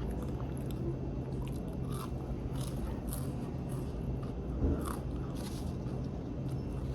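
Close chewing and crunching of a crispy, hard-fried fish and fries basket, a run of small crackling crunches over a steady low hum. There is a brief low thump a little past halfway.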